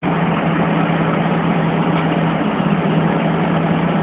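Steady running noise of a metro train, an even rushing sound with a constant low hum under it.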